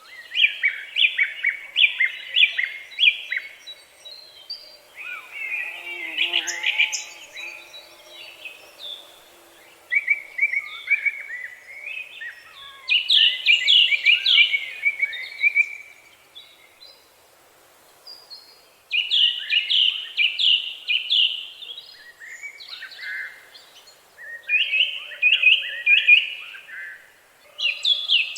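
Songbird singing: phrases of rapid, repeated trilled notes, each lasting a few seconds, with short pauses between them.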